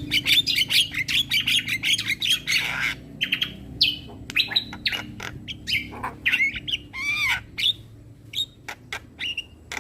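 Black-winged starling (jalak kebo) song: a rapid, dense chatter for the first few seconds, then a varied string of squawks, gliding whistles and sharp clicks.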